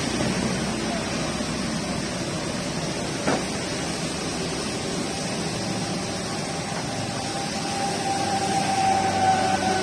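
Steady rain falling, an even hiss, with a single short knock about three seconds in.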